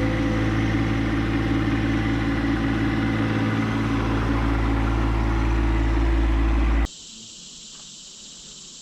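John Deere 1025R compact tractor's three-cylinder diesel engine running steadily, then cutting off abruptly about seven seconds in. After that only a steady high insect buzz remains.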